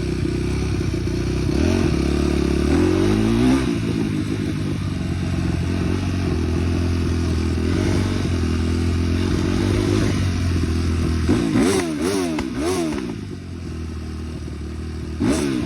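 Small off-road engine running under riding load: it revs up a few seconds in, holds a steady drone, then blips up and down several times, eases off, and revs again near the end.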